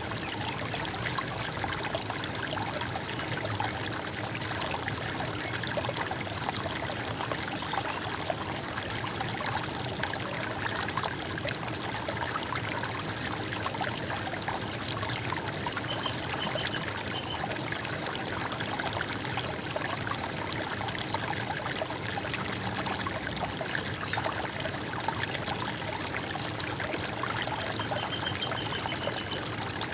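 Running water trickling and gurgling steadily, with a couple of faint short bird calls partway through and near the end.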